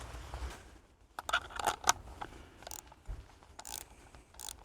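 A series of short, sharp clicks and scrapes from hands working on the antenna's cord and fittings, thickest about a second in, then a few spaced clicks.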